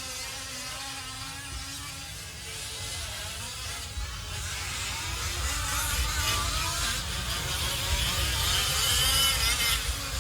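Several fifth-scale RC off-road trucks' small gas two-stroke engines buzzing around the track. Their pitches glide up and down as they accelerate and back off, and the sound grows louder in the second half.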